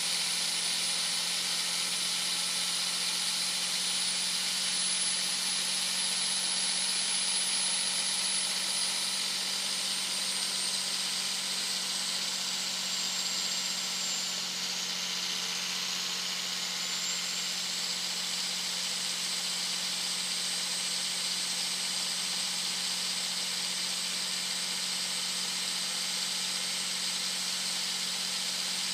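Very loud turbocharger whistle from a 2001 Dodge Ram 2500's 5.9-litre Cummins inline-six turbo diesel cruising at highway speed. The high, steady whistle sags in pitch about ten seconds in, then climbs back a few seconds later. Under it run a low engine drone and road hiss.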